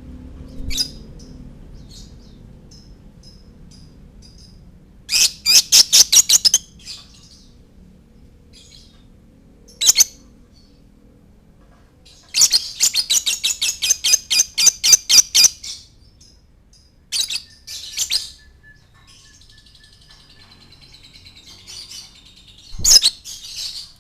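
Young lovebird chirping in bursts of rapid, high-pitched calls, about six a second, with single sharp calls in between. It is the kind of chatter used as a 'pancingan', a recording played to set other lovebirds singing.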